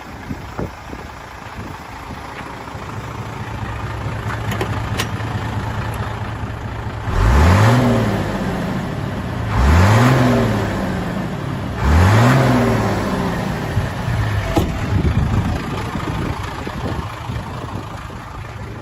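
1998 Hino Ranger dump truck's J08C inline-six diesel engine idling, then revved three times about two and a half seconds apart, each rev rising and dropping back to idle.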